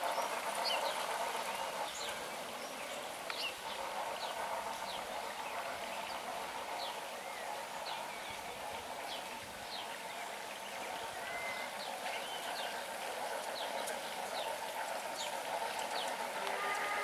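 Small birds chirping, with short high falling notes scattered all through, over a steady background rush.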